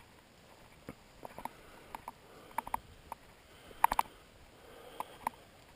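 Raindrops tapping in light, irregular ticks over a faint hiss, with a louder cluster of taps about four seconds in.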